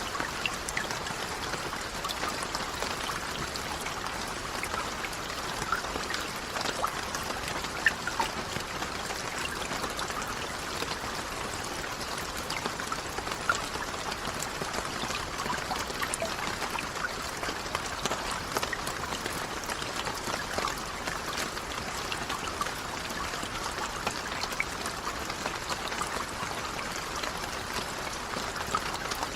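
Steady rain falling, an even hiss with many individual drops ticking and splashing close by.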